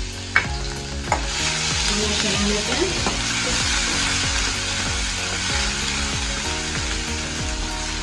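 Ginger-garlic paste sizzling in hot ghee with mustard and cumin seeds in a steel kadai as a steel spoon stirs it. Two sharp clinks of the spoon on the pan come in the first second, then the sizzle swells and holds steady.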